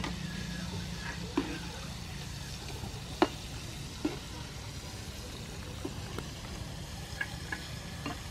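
Battered squid rings frying in hot soybean oil in a pan, a steady sizzle. A metal spatula clinks against the pan and strainer several times, loudest about three seconds in.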